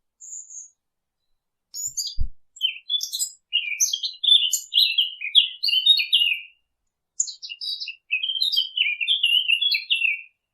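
A songbird singing a long, fast, varied warbling song in two phrases, with a short break about seven seconds in, after a single brief high note at the start. A soft low thump comes about two seconds in.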